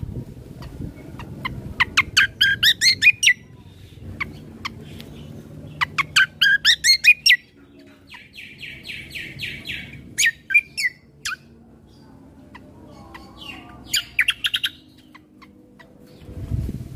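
Kecial kombo songbird singing in bursts of fast, repeated chirps, with a buzzy rattling phrase near the middle and single sharp notes between the bursts. A faint low rumble sits underneath.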